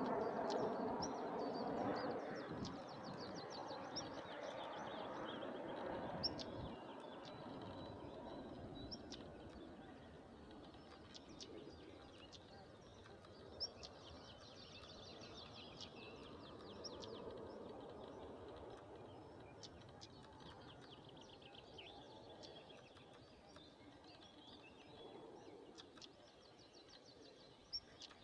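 Several small songbirds chirping and trilling, with a fast trill about halfway through. Under them runs a steady rush of wind, stronger in the first few seconds.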